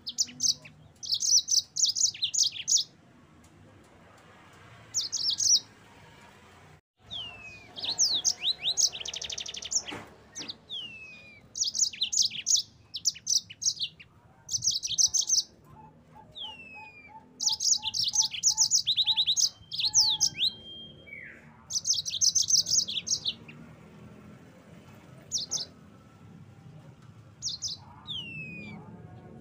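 Yellow-fronted canary singing: bursts of very fast, high trilled phrases mixed with short down-slurred whistles, broken by brief pauses.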